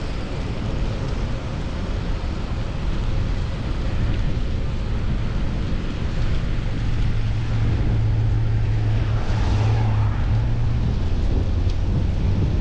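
Road traffic and wind rush heard from a moving bicycle, with a motor vehicle's engine hum coming in about halfway through and growing a little louder.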